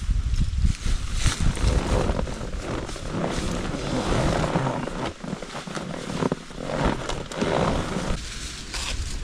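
Irregular rustling of nylon hammock-tent fabric and air mattress, with a few small knocks, as someone gets into a Haven hammock tent.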